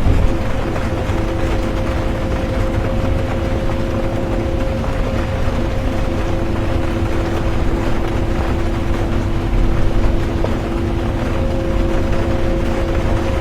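Bus interior ambience while driving: a steady low rumble of engine and road with a hiss of rain and tyres, and two steady whining tones from the drivetrain, the lower one breaking off for about a second midway.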